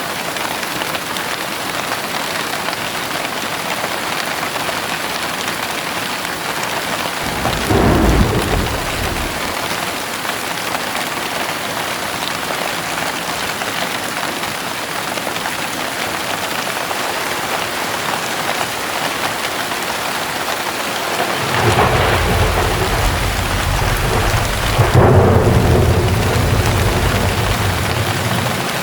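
Steady heavy rain falling throughout, with a short clap of thunder about a quarter of the way in. In the last quarter a long rumble of thunder rolls for several seconds, loudest near its end.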